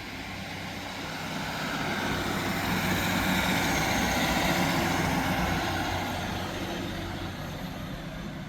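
Class 150 Sprinter diesel multiple unit pulling out of the station, its diesel engines working under power. The sound swells to a peak about four seconds in and then fades as the train draws away.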